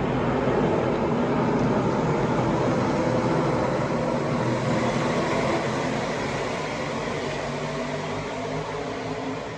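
NASCAR Truck Series race trucks' V8 engines running hard, several engine notes layered together, the sound fading gradually over the second half.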